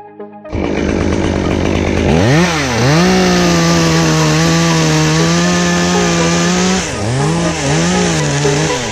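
Chainsaw cutting in loud about half a second in, revving up about two seconds in and holding steady at full throttle for several seconds, then dropping and revving up and down a few times near the end.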